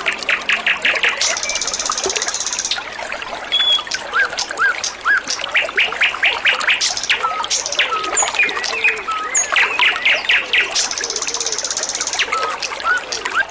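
A songbird, the wambi of the title, singing in bright chirps, quick runs of repeated notes, short whistles and two buzzy trills, over a steady trickle of running water.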